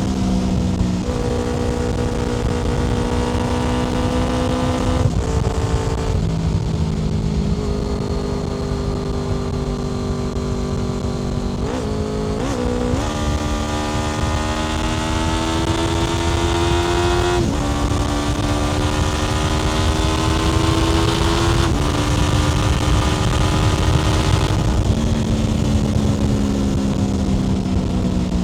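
Honda VFR800 FI's V4 engine through a Black Widow aftermarket exhaust, under way: the revs climb and fall with several gear changes, the pitch dropping sharply at each shift, over steady road and wind noise.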